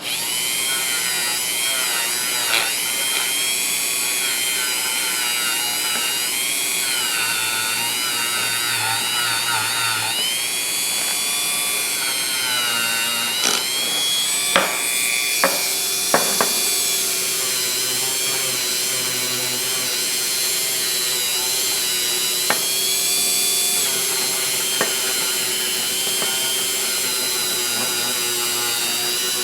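Power-driven wire wheel brush scrubbing a metal ratchet part: the motor whines, its pitch wavering as the wire bristles are pressed into the metal, with a few sharp clicks of metal contact about halfway through.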